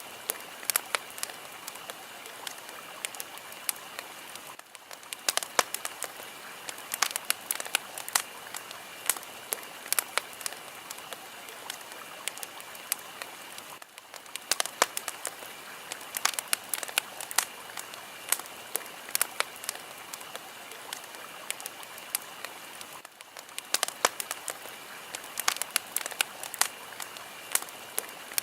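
Fire crackling: a steady hiss with frequent sharp pops and snaps. The hiss briefly dips about every nine seconds.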